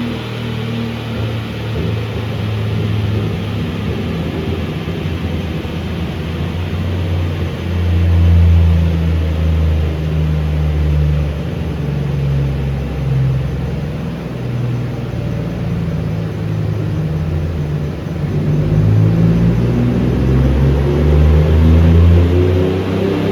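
Toyota 2JZ inline-six engine running in a 1980 Corolla wagon on a chassis dyno. Its note holds and shifts in steps, then begins to climb in pitch over the last few seconds as it revs up.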